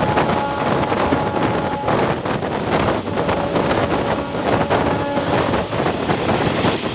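ICF passenger coach running on the rails: a steady, loud rumble and rattle with frequent clatter, and wind buffeting the microphone.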